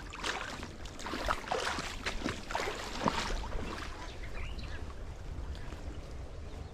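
Kayak paddle strokes: water splashing and dripping off the blade in irregular bursts for the first three seconds or so, then quieter lapping.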